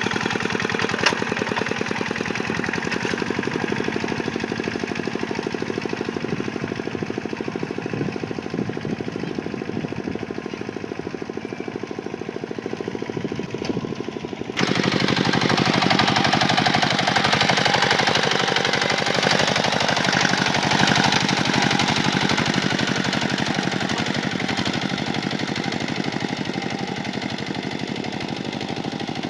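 Kubota tractor's diesel engine running with a steady, knocking beat. About halfway through the sound changes abruptly to a louder, fuller engine noise that sags and then recovers in pitch, as under plowing load.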